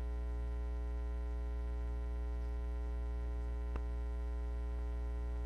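Steady electrical mains hum: a low buzz with a stack of even overtones, with one faint click about two-thirds of the way through.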